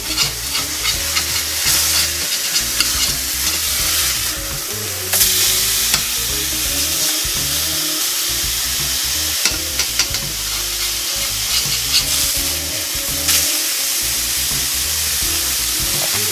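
Smashed ground-turkey patties frying and sizzling steadily in a stainless steel sauté pan, with scattered sharp clicks and taps throughout.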